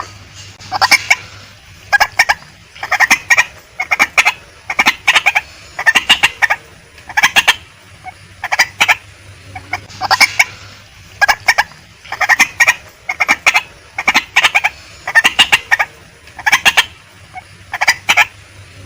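Female white-breasted waterhen calling: clusters of short, sharp clucking notes repeated about once a second.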